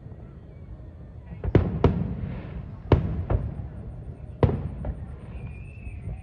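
Aerial fireworks bursting overhead: three pairs of sharp bangs, each trailing off in a low rumble, starting about a second and a half in.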